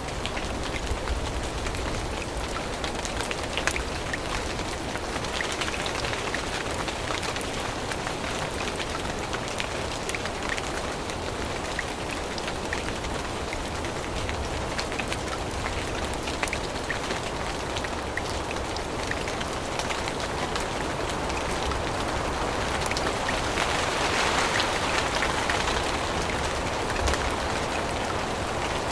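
Steady rain falling on forest leaves, with many small drops pattering close by. The rain gets a little louder for a few seconds near the end.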